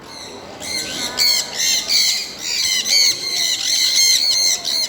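Birds calling loudly in a rapid run of short, high, repeated calls, about three a second, several overlapping.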